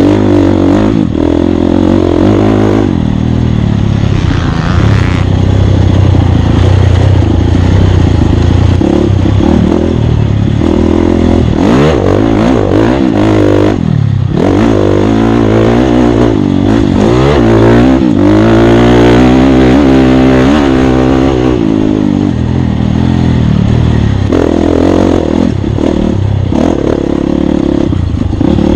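Off-road dirt bike engine on a race lap, revving up and dropping back over and over as the throttle opens and closes and the gears change, with clattering and rattling from the bike on rough ground.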